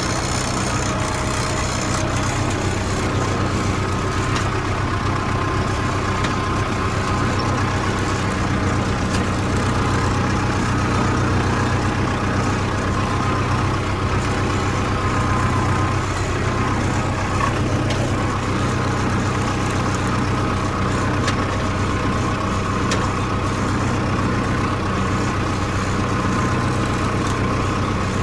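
Farmtrac 6055 CRDi tractor's common-rail diesel engine running steadily at an even speed.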